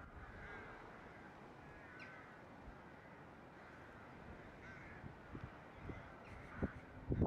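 Faint, distant bird calls, a few short calls scattered through over quiet outdoor background.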